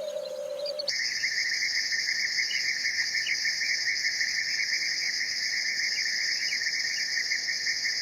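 Insects chirring in a steady, fast trill that starts abruptly about a second in and holds unbroken.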